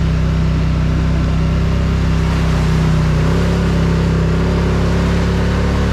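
Polaris Sportsman ATV engine running steadily under load, its pitch shifting slightly about three seconds in.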